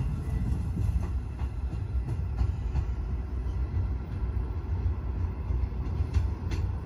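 Great Western Railway Intercity Express Train moving away at low speed: a steady low rumble, with its wheels clicking now and then over rail joints.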